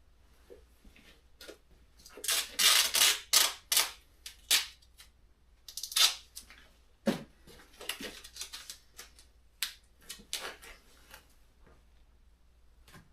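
Irregular handling noises from work on a truck headliner: a run of short ripping and scraping bursts with sharp clicks, loudest a few seconds in, then scattered clicks.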